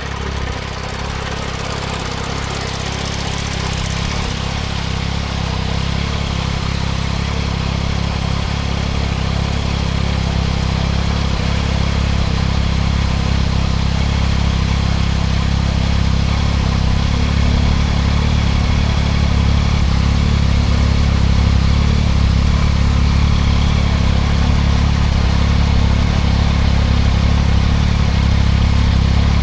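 2024 Yamaha MT-09 SP's three-cylinder engine running through a Spark full exhaust while riding, under a steady rushing noise. The sound grows gradually louder over the stretch.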